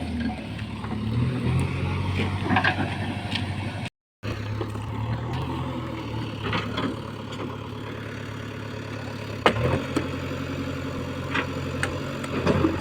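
Heavy diesel engine running steadily, with a brief silent gap about four seconds in and a few sharp knocks, the loudest about nine and a half seconds in.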